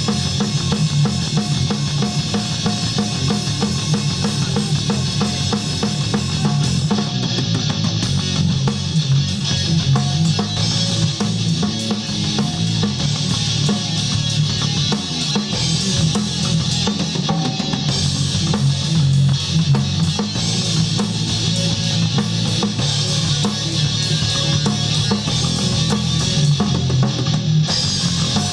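Band music with a drum kit driving a steady beat, bass drum and snare to the fore.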